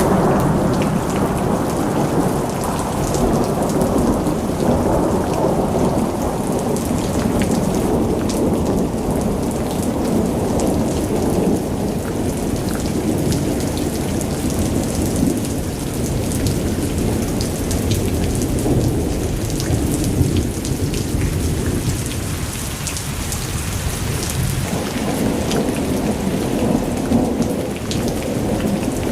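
Vacuum cleaner running steadily at close range, a loud continuous rumbling noise that swells and eases slightly as it is worked over the floor.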